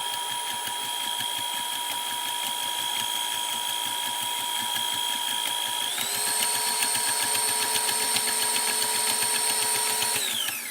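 KitchenAid stand mixer running at speed, whipping solid soap-making oils, with a steady motor whine. About six seconds in it is switched to a higher speed and the whine steps up in pitch; near the end it is switched off and the whine falls away.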